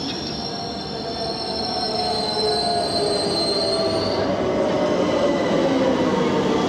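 Electric train moving through the station on steel rails: a high wheel squeal for the first four seconds or so, over a motor whine that falls slowly in pitch as the rail noise grows louder.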